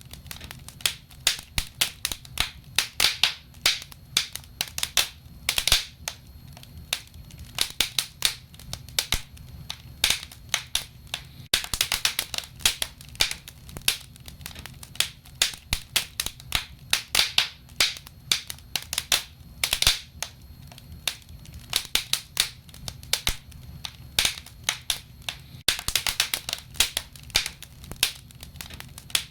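Burning firewood crackling, with many irregular sharp pops, several a second, over low steady noise.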